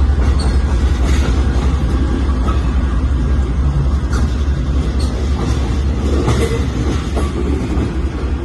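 Diesel-electric freight train running past, a loud steady low rumble with scattered clicks of wheels on rail joints and brief high squeaks.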